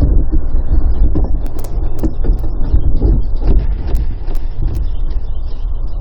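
Low rumbling noise of wind buffeting a body-worn microphone, with a few sharp clicks about one and a half to four and a half seconds in.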